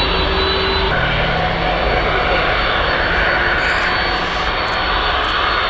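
Boeing 767-300 freighter's twin jet engines at takeoff thrust, a loud, steady noise as the jet departs.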